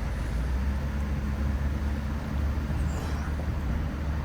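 Truck driving along, a steady low rumble of engine and road noise.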